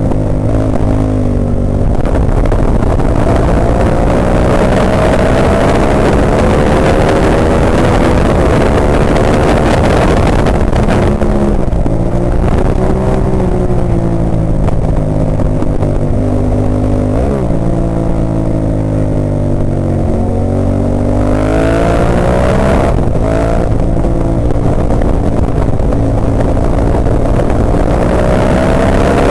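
Ducati 998's V-twin engine at racing speed, heard from on the bike: it climbs in pitch through quick gear changes and falls back as it slows for corners, several times over.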